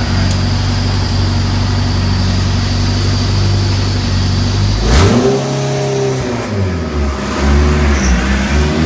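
Turbocharged Honda K20 four-cylinder idling steadily. About five seconds in there is a sharp click, and the engine then revs up and down.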